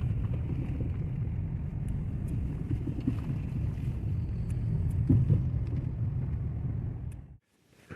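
Strong gusting wind buffeting the microphone in a blizzard, a heavy low rumble that cuts off abruptly about seven seconds in.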